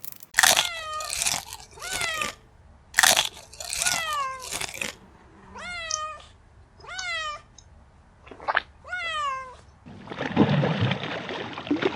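A cat meowing over and over, about nine calls that each slide down in pitch. Near the end the meows give way to a dense crunching noise.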